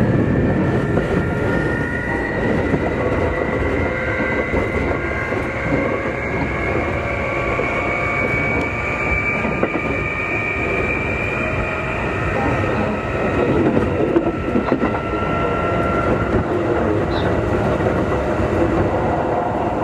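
Keikyu 2000 series electric train heard from inside car DeHa 2052 while running. Several tones from its traction motors whine together, rising slowly in pitch for about ten seconds, then levelling off and easing down, over a steady rumble of wheels on rail. The motors are thought to be Mitsubishi-made and give this car a different motor sound from the other cars of the class.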